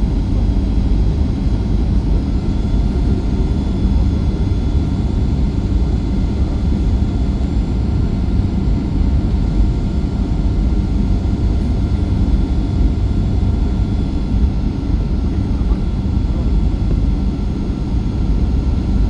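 Steady in-flight cabin noise of a Boeing 737-8 MAX: a deep, even rush of airflow and engine noise, with faint steady whine tones above it.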